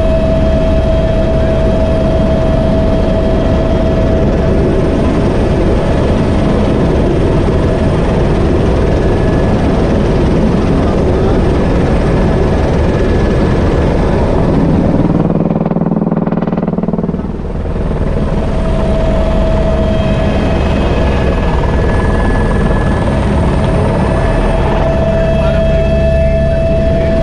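Helicopter in flight heard from inside the cabin: a loud, steady engine and rotor noise with a constant whine. About halfway through, the whine and hiss fade for a couple of seconds and the sound turns lower and duller, then it returns.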